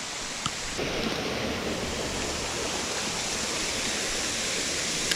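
Creek water running, a steady rushing noise that grows a little louder about a second in, with a faint click about half a second in.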